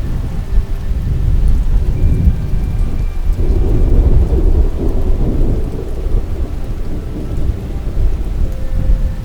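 Thunder rumbling over steady rain. The rumble swells about three and a half seconds in and eases off over the next few seconds.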